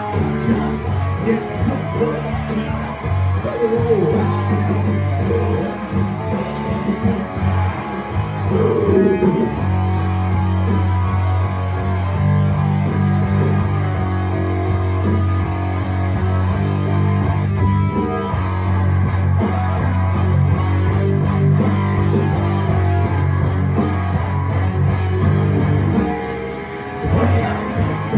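Rock band playing live, led by electric guitar, over a sustained low line that settles in about ten seconds in.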